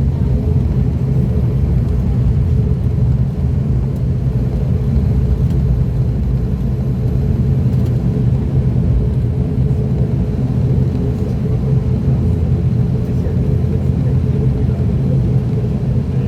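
Steady drone of an ATR 42-600's twin turboprop engines and propellers heard inside the cabin: a low, even hum with a few steady tones through it.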